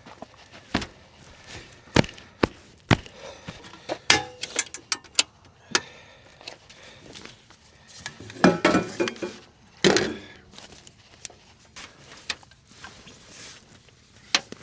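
A series of irregular knocks and clicks from objects being handled, with two louder clattering bursts about eight and ten seconds in.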